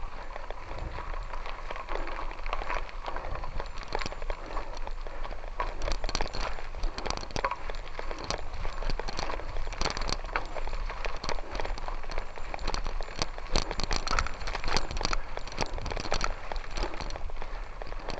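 Loose gravel crunching and crackling underfoot or under tyres, a dense irregular patter of small clicks that grows busier and louder about halfway through, over a steady low rumble.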